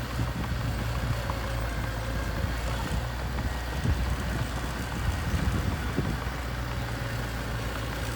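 Engine of a mini bulldozer running steadily, a low drone with slight surges.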